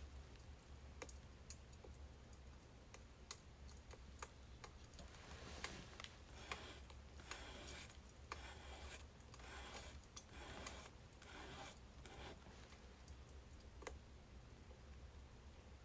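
Faint crackling of a birch wood fire: scattered sharp pops and snaps, with a denser stretch of crackling in the middle.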